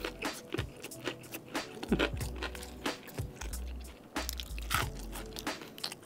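Close-miked chewing of a mouthful of crispy fried chicken karaage and rice, with many sharp crunches from the crispy coating.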